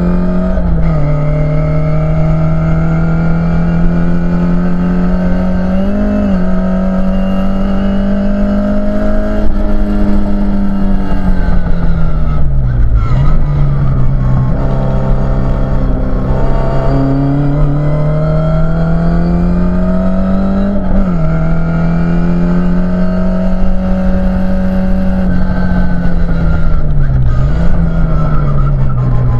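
Mk2 Ford Escort RS2000's four-cylinder engine under hard racing load, heard from inside the cabin. The revs climb slowly along the straights and step at the gear changes. Twice the pitch drops sharply and climbs again as the car slows for a corner and accelerates out.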